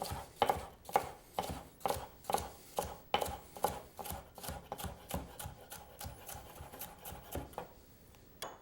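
Knife slicing red bell pepper into thin strips on a cutting board: a steady run of knife strokes about two a second that grow softer and stop near the end, followed by one sharp click.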